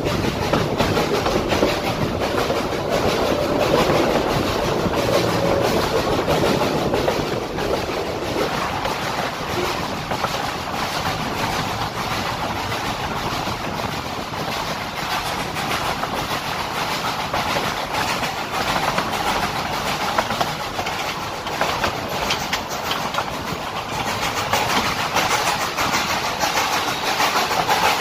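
Open-sided passenger coach of a steam-hauled train rolling along, with a steady clatter of wheels on the rails.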